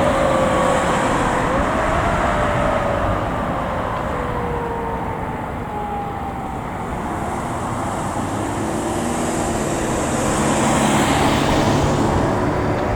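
A fire truck's siren slowly falling in pitch over several seconds as it winds down, over road noise. Later the truck's engine swells and passes, loudest near the end.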